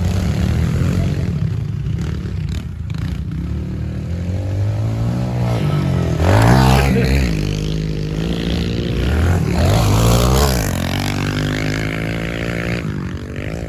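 Small four-stroke 110 cc pit bike engines revving up and down as the bikes ride laps. Two louder stretches, about six seconds in and again around ten seconds, come as a bike comes close and its pitch drops as it passes.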